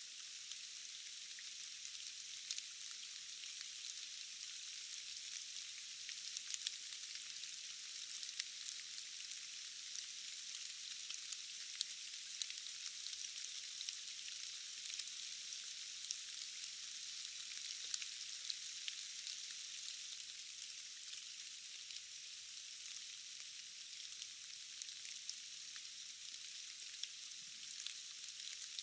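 Steady rain falling in a forest: a dense, even hiss scattered with many small ticks of individual drops, with almost no low rumble.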